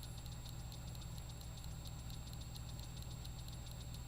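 Steady low hum of a vehicle idling, heard from inside the cab, with a fast, even ticking running over it.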